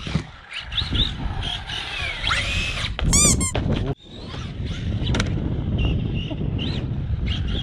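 Brushless motor of an Arrma Typhon 3S BLX RC buggy whining up and down in pitch with the throttle, over the rumble and scrub of its tyres on concrete. About three seconds in comes a short, loud high squeal, and the sound cuts out abruptly just before four seconds.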